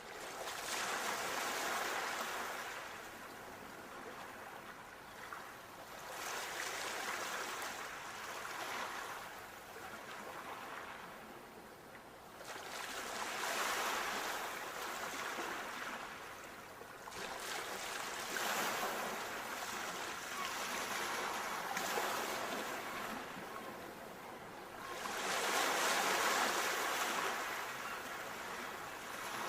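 Ocean waves breaking and washing onto the shore, the surf swelling and fading in slow surges every few seconds.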